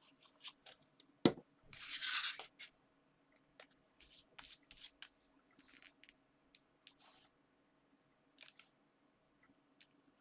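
Paper and card being handled on a craft table: scattered light rustles and taps, with one sharp knock about a second in and a brief rustle just after.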